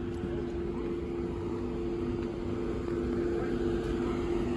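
Car engine idling: a steady low hum over a rumble.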